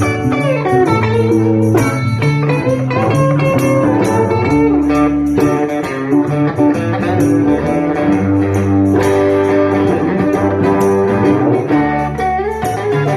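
Live blues-rock band playing an instrumental break: electric guitar lead lines over rhythm guitar and bass guitar.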